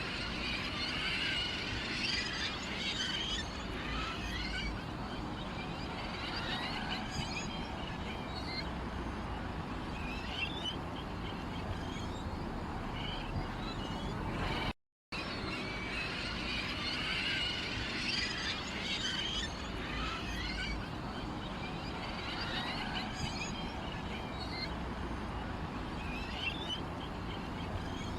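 Small birds chirping and twittering in a busy chorus over a steady low background. The sound cuts out for a moment about halfway through, and the same stretch of chirping then seems to repeat.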